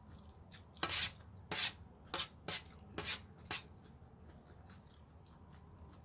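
Close-miked crunchy chewing of raw vegetable salad, about six loud crunches in the first three and a half seconds, then fainter chewing.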